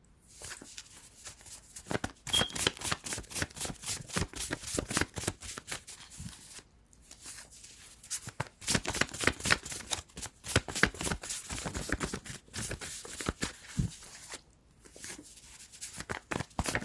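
Tarot cards being shuffled by hand: rapid dense flicking and slapping of card edges, in three runs with short breaks between them.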